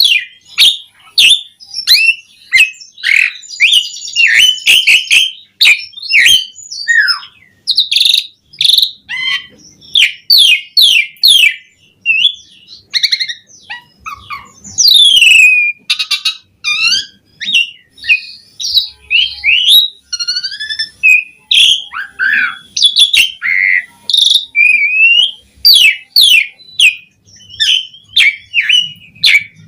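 Asian pied starling singing hard: a fast, unbroken stream of varied whistles, chirps, clicks and rising and falling glides, strung together with mimicked song phrases.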